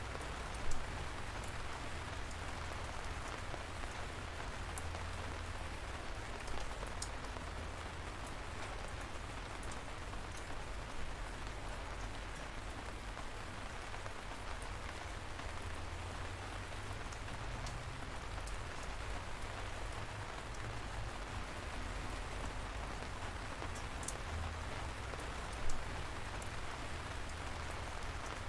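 Steady light rain falling, an even hiss with scattered single drops ticking on a surface. One sharper drop tap comes about a second in, and another near the end.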